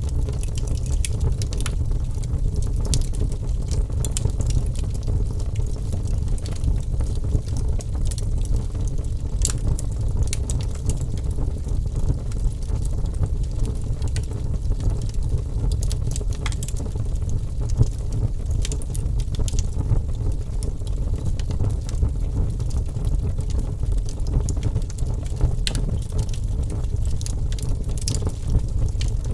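Wood fire burning with a steady low rumble of flames and frequent irregular sharp crackles and pops from the burning logs.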